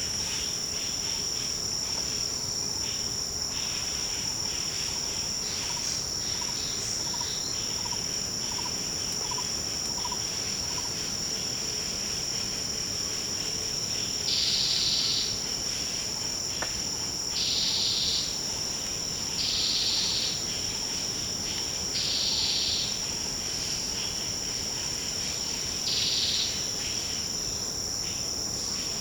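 Tropical forest insect chorus: a steady, high-pitched shrill drone. In the second half, five louder buzzing bursts of about a second each come from another insect, along with faint soft notes repeating early on.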